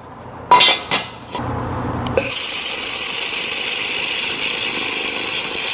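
A couple of clicks and a brief low hum, then about two seconds in a handheld laser welder starts tack-welding steel with a steady high hiss that runs on unbroken.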